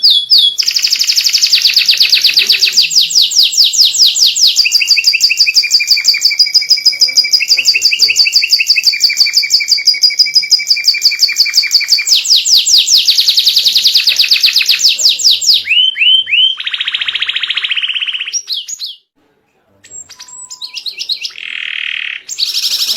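White canary singing a long, loud song of rapid trills, moving from one fast trilled phrase to the next every few seconds. The song breaks off briefly about nineteen seconds in, then resumes.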